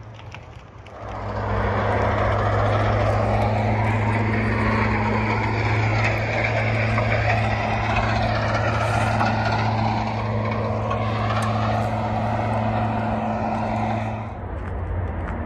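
A motor vehicle's engine running steadily at an even pitch; it comes up about a second in and fades near the end.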